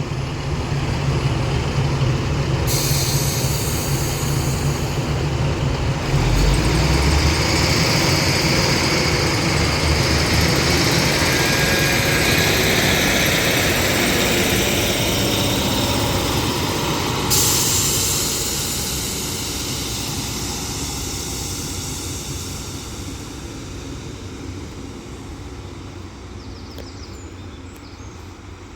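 Doubled-up Northern Class 150 Sprinter diesel multiple unit pulling away from the platform, its underfloor diesel engines working under power. The sound grows louder about six seconds in, then fades steadily over the last ten seconds as the train draws away.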